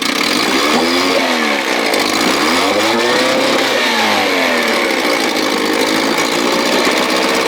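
1957 Sea King 5 hp two-stroke outboard motor running, revved up and back down twice, then settling to a steady run.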